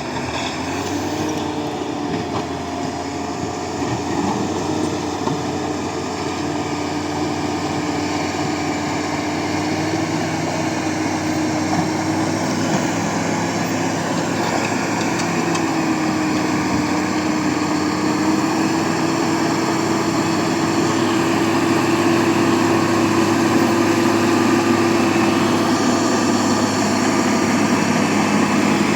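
Bulldozer diesel engine running steadily under working load, its pitch wavering a little, growing gradually louder.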